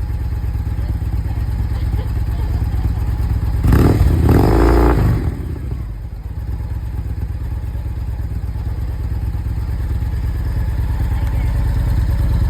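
Victory motorcycle's V-twin engine idling with a steady low rumble, revved once briefly about four seconds in, then settling back to idle.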